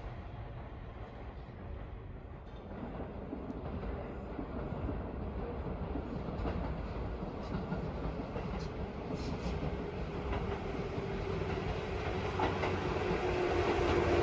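Tobu Railway train approaching along the line, growing steadily louder, with a steady hum coming in near the end.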